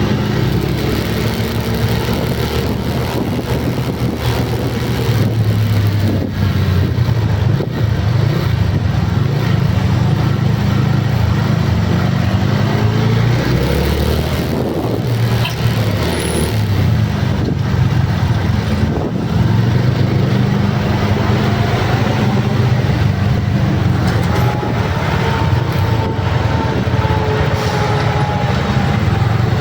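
Motor vehicle engines running in traffic, their pitch rising and falling as they speed up and slow down, with a higher gliding tone near the end.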